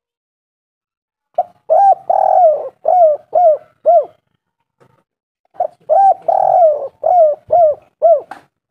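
Spotted dove (tekukur) cooing: two calls, each a short coo, a longer drawn-out coo and then a quick run of about four short coos, with a pause of about a second and a half between them.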